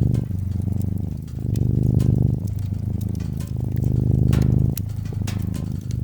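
A cat purring, the rumble swelling and easing with each breath about every two seconds, over the scattered pops and crackles of a wood fire.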